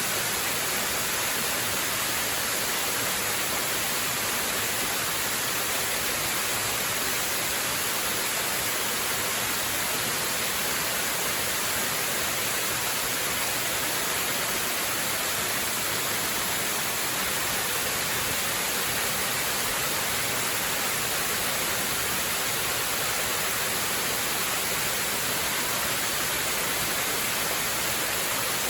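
Waterfall rushing in an even, unbroken hiss that holds steady without any change.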